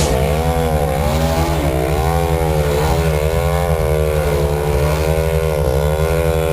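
Engine of a Lanier Yak 54 radio-controlled aerobatic model plane running in flight, its pitch swooping up and down several times as the plane manoeuvres, over a steady low rumble.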